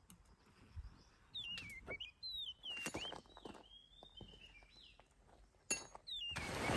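Wild bird singing: a run of short whistled notes that slide down in pitch, repeated with short gaps. A few sharp clicks fall between them, and a steady noisy hiss comes in near the end.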